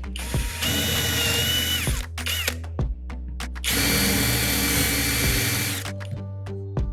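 Power drill running in two bursts of about two seconds each, with a steady whine, over background music.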